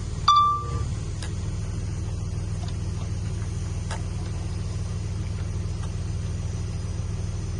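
Heavy construction machine's diesel engine running steadily with a low hum. About a third of a second in there is one brief, loud, high-pitched beep lasting about half a second, and a few faint clicks later on.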